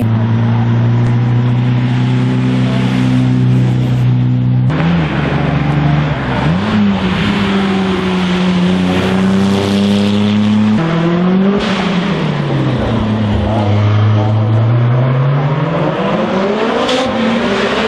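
Racing car engine running hard at high revs. The pitch holds steady, then dips and climbs back several times: briefly about five and six and a half seconds in, then in a longer drop, sag and rise over the last third, with another short dip near the end.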